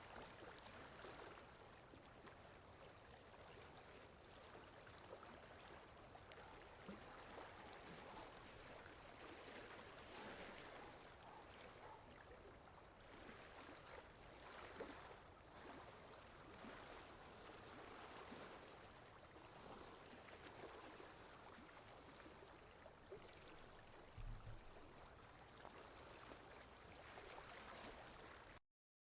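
Faint, steady rain: an even hiss with soft patter. There is one low thud about three quarters of the way through, and the sound cuts out suddenly just before the end.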